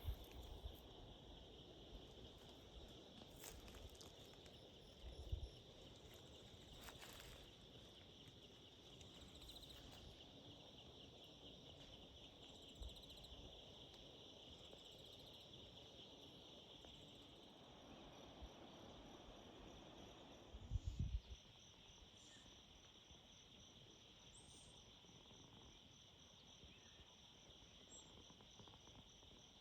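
Faint, steady chorus of crickets and other insects: a continuous high trill with a second insect's rapid pulsing note above it. Two brief low thumps, one a few seconds in and one about two-thirds of the way through.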